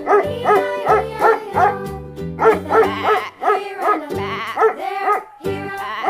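A dog barks repeatedly, about two short barks a second, over steady children's background music.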